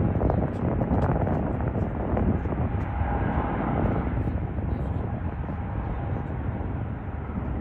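Jet airliner engine noise: a steady rushing sound with a faint whine that comes in around the middle.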